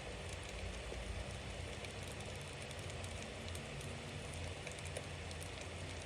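Bonfire burning: a steady hiss dotted with many small sharp crackles and pops, over a low rumble.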